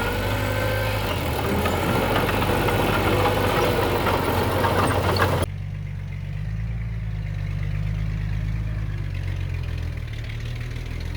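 Heavy diesel earthmoving machinery running steadily, with busy mechanical noise over the engine note. About five and a half seconds in, the sound cuts abruptly to a duller, low engine rumble.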